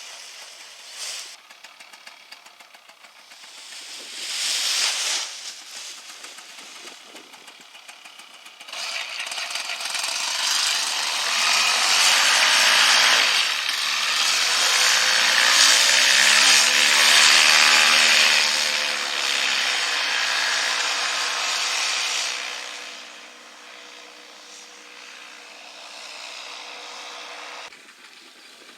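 A small engine running, with a rasping tone. It starts loud about nine seconds in, dips and rises in pitch around the middle, then stays steadier and fainter before cutting off near the end.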